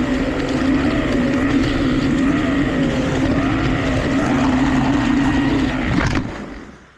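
1/32 Carrera Digital 132 slot car's electric motor running steadily, heard from on board the car. About six seconds in there is a sharp knock and the motor sound dies away as the car wipes out.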